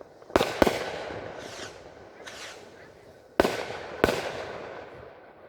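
Fireworks going off: two sharp bangs in quick succession, then two more about three seconds later, each trailing off in a rolling echo.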